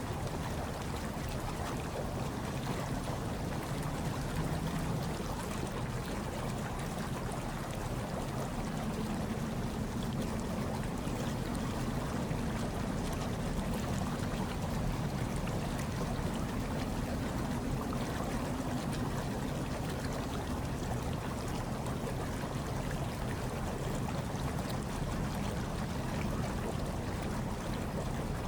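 Hot tub water bubbling and churning steadily, a continuous low rush of moving water.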